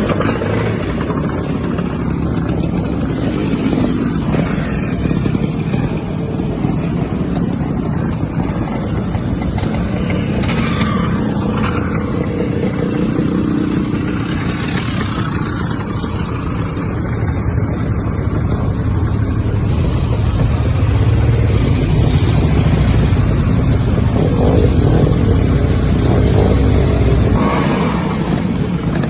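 Motorcycle engine running steadily while riding, growing louder about two-thirds of the way through and easing off near the end.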